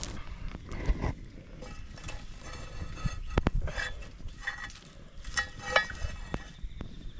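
A newly built campfire with scattered knocks and crackles from the burning wood, and a few short squeaky tones.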